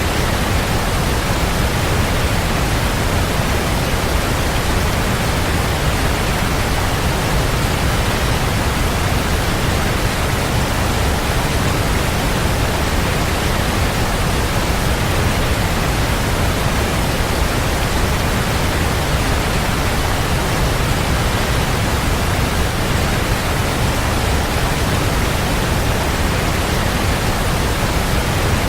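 Waterfall pouring steadily: a continuous, even rush of falling water with a deep low rumble, unchanging throughout.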